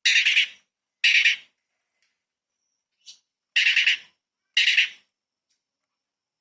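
Cucak cungkok songbird giving short, harsh, rattling calls: four loud bursts of about half a second each, two early and two in the middle, with a faint brief note between them.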